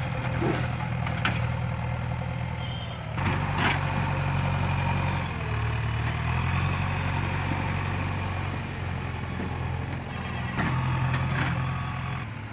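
Heavy diesel machinery engine running, its pitch and level shifting a few times, with a few brief metallic knocks.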